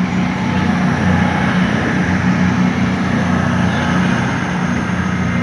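A train standing at the platform with its engines idling: a steady low hum under a constant rumble.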